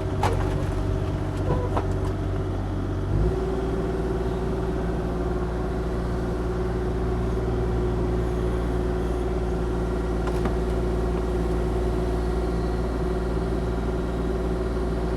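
Engine running steadily, stepping up to a higher, steady speed about three seconds in.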